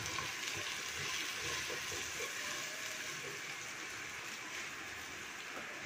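Garlic, ginger and browned onion frying in hot ghee in a clay handi, sizzling with a steady hiss that eases slightly.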